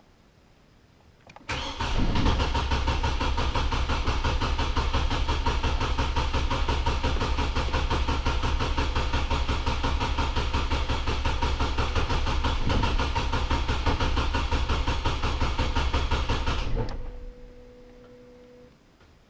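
Truck engine cranking on its starter for about fifteen seconds in one long steady crank without catching, then cut off suddenly: the truck won't start.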